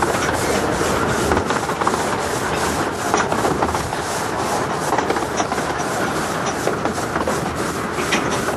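A 15-inch-gauge miniature railway train running along the track, heard from an open passenger carriage: a continuous rumble and rattle with a fast, even beat of about three sharp clicks a second.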